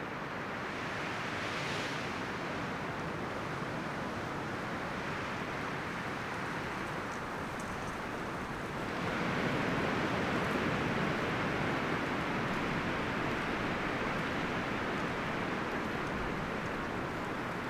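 Wind blowing through forest trees, leaves and branches rustling in a steady hiss that swells into a stronger gust about nine seconds in.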